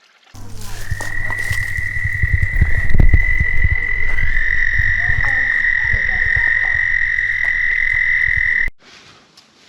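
A frog calling: one long, steady, high-pitched trill lasting about eight seconds, starting and stopping abruptly, over a low rumble.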